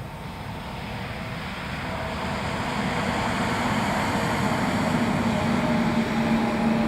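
Approaching Union Pacific freight train led by GE C44AC diesel-electric locomotives, a steady engine rumble with a low hum growing steadily louder as the train draws near.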